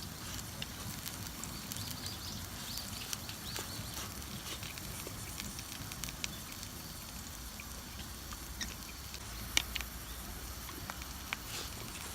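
Wood campfire crackling, with scattered small pops and a sharper snap about nine and a half seconds in, over a low steady rumble.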